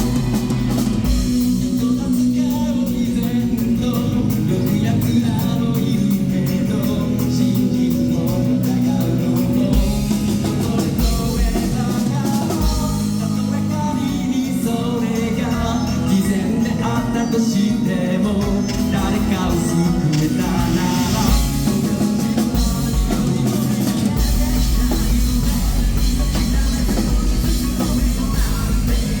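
Live rock band playing loudly, with drum kit, electric guitar and bass under a singer's voice; the low bass drum gets heavier near the end.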